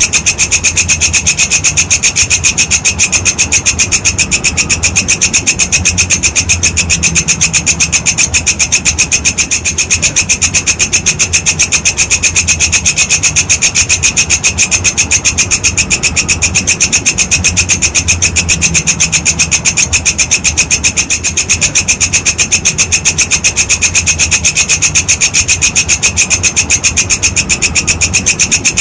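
Walang kecek insect calling: a continuous, fast, even rasping trill that keeps up without a break.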